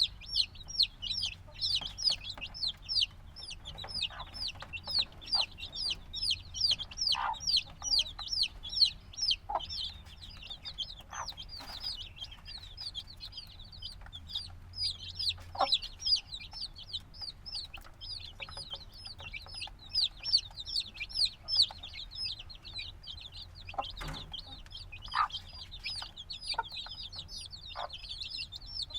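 A brood of chicks a few days old peeping continuously: many rapid, high, downward-sliding chirps overlapping, with a few faint knocks and shuffles among them.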